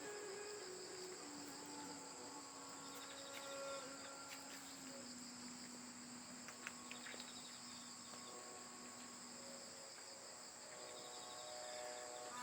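Crickets chirring in a steady, high chorus. Underneath, a faint low note of soft background music is held for several seconds, stepping down once and fading out.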